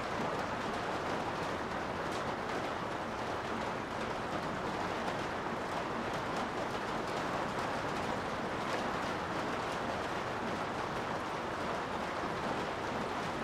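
Steady rain heard from inside a garage, a constant rushing hiss with scattered drops ticking on top.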